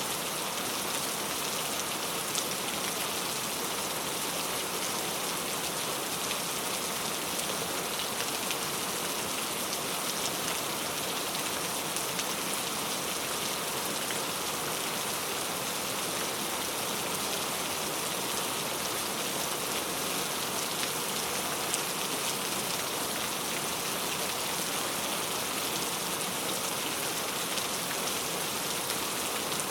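Steady rain falling on a hard surface: an even hiss with scattered individual drop ticks.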